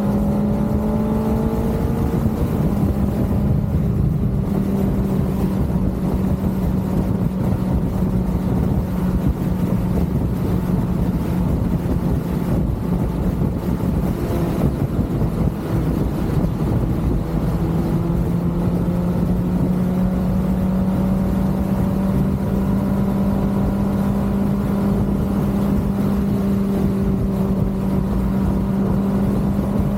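Kawasaki ZX-6R inline-four engine running at a fairly steady cruising speed, its note holding one pitch with small rises and dips, under loud rushing wind and road noise from riding.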